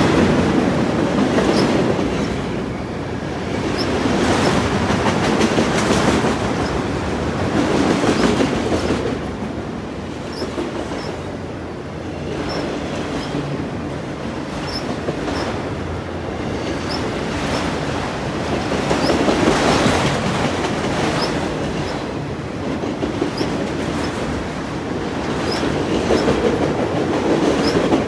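CN freight train rolling past at speed, its wheels clacking over the rail joints, loudness swelling and easing as each car goes by. Short high wheel squeaks recur every second or two.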